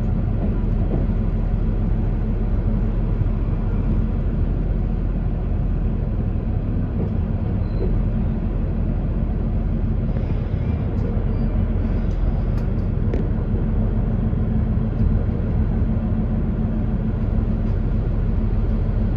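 Diesel railcar standing still with its engine idling: a steady low hum and rumble heard inside the carriage, with a few faint clicks partway through.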